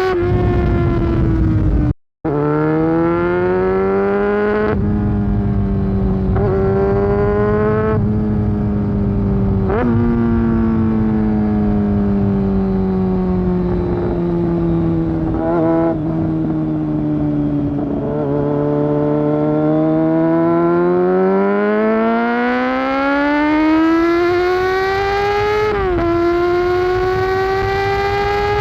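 Honda CBR600F4's inline-four engine with a loud aftermarket Delkevic exhaust, ridden through the gears. The note sags and then jumps back up several times as the bike slows and changes down. Later it climbs smoothly under acceleration and drops sharply at an upshift near the end, with a brief break in the sound about two seconds in.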